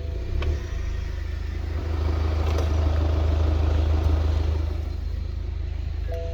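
BMW 520d's four-cylinder diesel engine idling steadily, its sound swelling louder for a few seconds in the middle. A short two-note electronic tone sounds at the start and again near the end.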